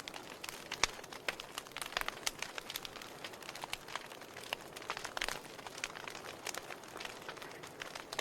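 Wood fire in a fireplace crackling: burning logs give irregular sharp pops and snaps over a steady soft hiss, with denser clusters of crackles about five seconds in.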